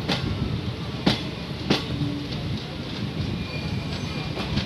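Freight train of covered auto-carrier wagons rolling past: a steady rumble of wheels on the rails, with three sharp clicks over rail joints in the first two seconds, the loudest a little over a second in.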